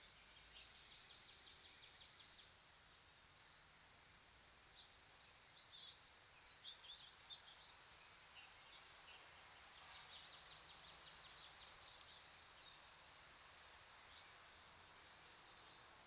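Faint, distant songbirds: a rapid high trill near the start, scattered chirps in the middle, and another rapid trill about ten seconds in, over a steady faint hiss.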